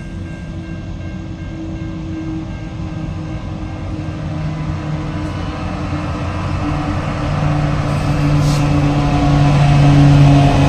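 Diesel-electric freight locomotives approaching at low speed, their engines giving a steady deep drone that grows steadily louder as they draw near.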